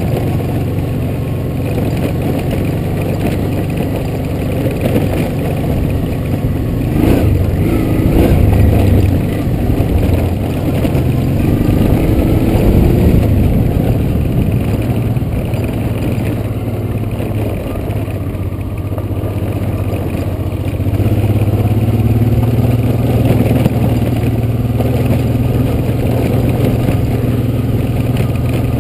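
Honda Transalp motorcycle engine running under way on a rough dirt track, its note rising and falling as the rider works the throttle.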